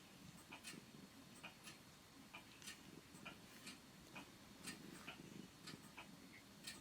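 Near silence: faint, irregular light clicks, about two or three a second, over a low room hum.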